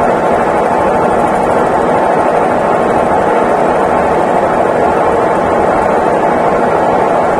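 Consul Facilite 11 kg top-loading washing machine running through its wash cycle, a loud, even whir that holds steady without pause.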